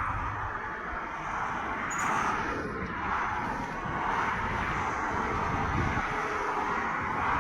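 Motorway traffic at speed: lorries and cars passing in a continuous rushing noise with a low rumble, swelling slightly as each vehicle goes by.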